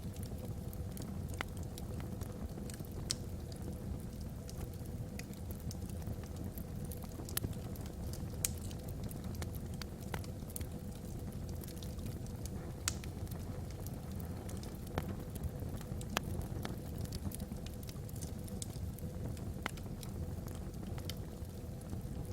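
Wood fire burning in a fireplace: a steady low rumble of flames with scattered sharp pops and crackles from the logs, some louder snaps standing out.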